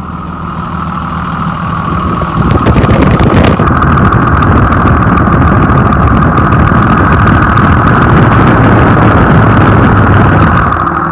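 Cummins diesel engine of a 2001 Sterling dump truck idling steadily, heard up close under the hood, sounding good. It grows louder from about two seconds in and eases back near the end.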